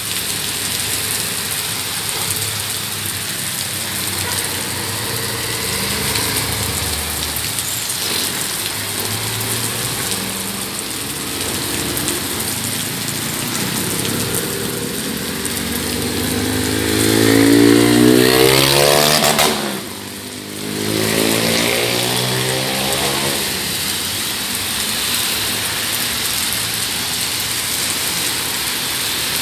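Heavy rain falling steadily on a street while motor traffic passes. About two-thirds of the way through, a vehicle's engine rises in pitch as it passes close, then drops away.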